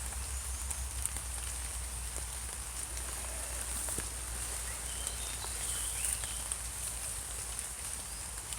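Steady rain falling, an even hiss with scattered ticks of drops landing.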